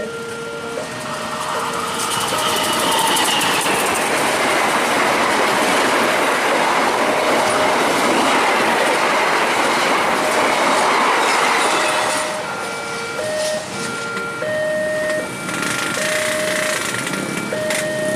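A train passing at speed over a level crossing, wheels clattering, loudest from about two seconds in until about twelve seconds in. Throughout, the crossing's electronic warning alarm alternates steadily between two tones.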